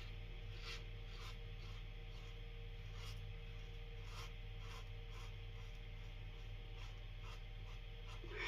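Faint, short scrapes of an adjustable safety razor's blade across stubble, irregular strokes about one or two a second, over a steady low hum.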